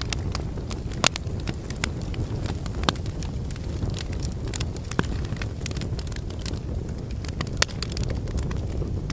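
Fireplace logs burning, with a steady low rumble under continual crackling and several sharper pops.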